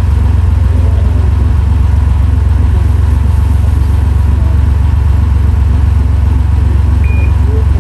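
Air-cooled flat-six of a classic Porsche 911 rally car idling steadily with an even low pulse. A short high beep sounds near the end.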